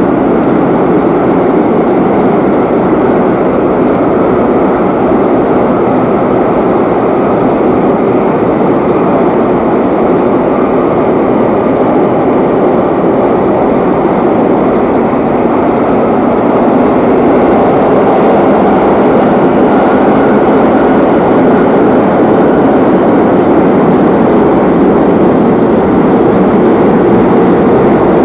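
Madrid Metro series 8000 train running between stations, heard from inside the carriage: a loud, steady rumble of wheels and running gear that grows a little louder about two-thirds of the way through.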